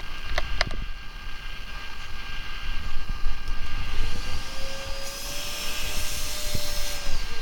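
Vacuum cleaner motor switched on about halfway through: its whine rises to a steady pitch with a rush of air, holds for about three seconds, then winds down as it is switched off near the end. A few clicks come near the start.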